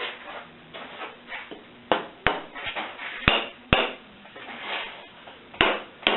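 Sharp taps rapping on the corners of a casting pattern in a packed sand mold, to loosen the pattern from the sand. The taps come in three pairs about a second and a half apart, with quieter noises of handling between.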